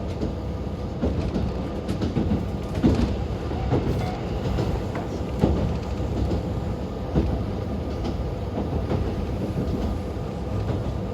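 Inside a JR Hokkaido KiHa 40 diesel railcar under way: the engine and running gear make a steady rumble, and the wheels knock irregularly over rail joints.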